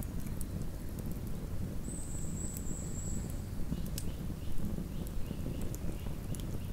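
Wood campfire burning: a steady low rumble of flames with scattered sharp crackles and pops from the burning wood. A thin high whistle sounds for about a second and a half, about two seconds in.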